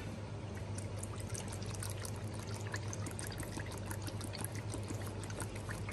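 Soy sauce pouring from a bottle into a stainless steel bowl of marinade seasonings: a faint, thin trickle with many small ticks and splashes.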